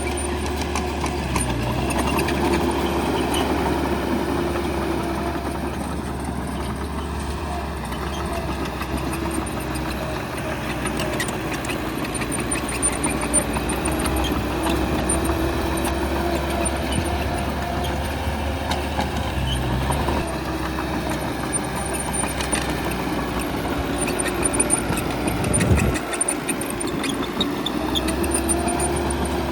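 Bulldozer's diesel engine running under working load, its pitch rising and falling as it pushes, with a brief louder knock about 26 seconds in.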